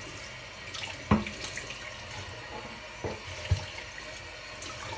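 Kitchen tap running into a sink while things are rinsed under it, with a few knocks of items against the sink, one about a second in and another past the middle.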